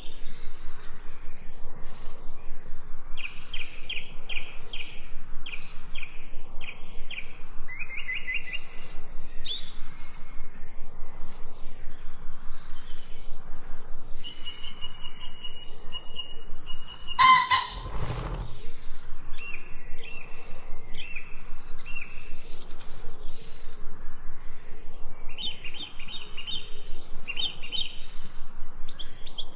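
Forest songbirds chirping and singing, with short high phrases repeated over and over. A held high note runs just before halfway. Then one louder, lower call cuts in for about a second.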